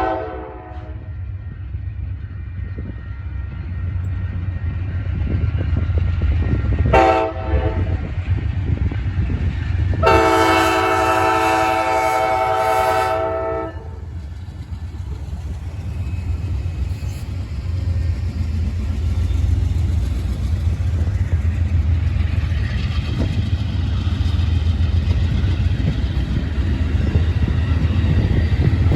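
Amtrak California Zephyr's diesel locomotives pulling out, their low engine rumble growing louder. The air horn sounds three times: a blast ending just after the start, a short blast about seven seconds in, and a long blast of about three and a half seconds from about ten seconds in.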